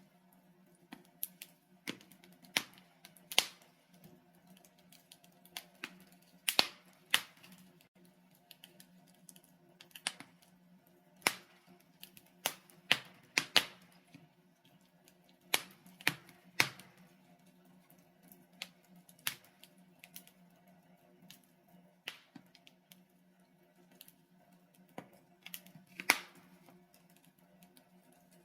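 Wood fire crackling: burning logs give irregular sharp pops and snaps, some much louder than others, over a faint steady low hum.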